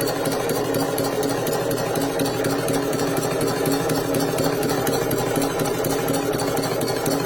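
Shoe repair sewing machine running steadily: a constant motor hum with a fast, even ticking from the stitching mechanism.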